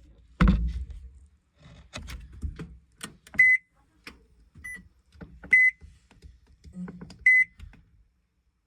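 Washing machine being set up: a heavy thump about half a second in, then knocks and clicks, and four short high beeps from its control panel as its buttons are pressed.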